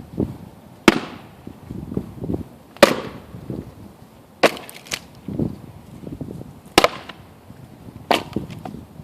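Axe chopping into a round of oak firewood, aiming to split it through the middle: five sharp, hard strikes about one and a half to two seconds apart.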